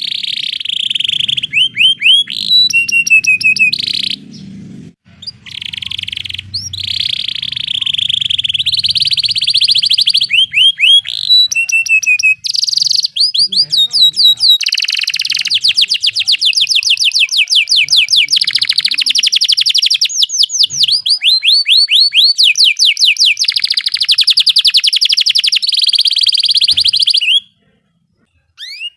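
Canary singing fast rolling trills: long runs of rapidly repeated chirps and sweeping notes, with short pauses between phrases. The song breaks off for about a second near the end.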